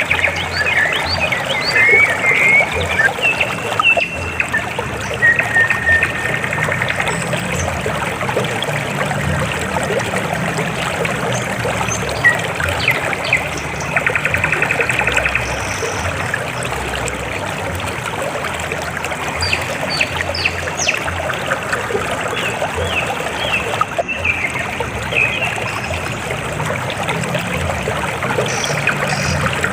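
River water flowing and trickling steadily, with short high chirps and trills now and then.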